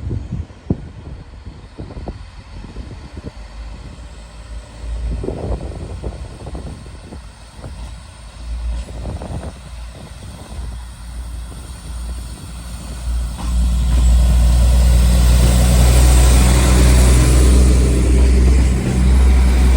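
Class 172 Turbostar diesel multiple unit idling with a low rumble and scattered knocks. About 13 seconds in, its underfloor diesel engines open up with a loud, steady drone as the train pulls away.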